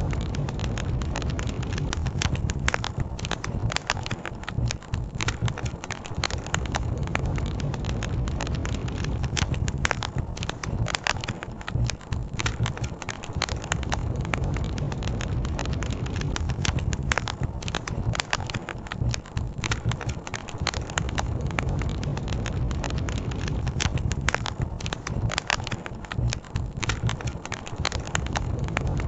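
Campfire crackling, with frequent sharp pops and snaps over a steady low rumble of flowing river water.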